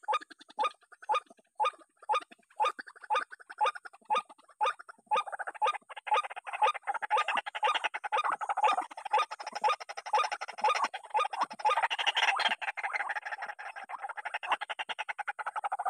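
White-breasted waterhen (ruak-ruak) calling: a steady run of harsh croaking calls, about two a second. About five seconds in, these thicken into a dense, continuous chattering.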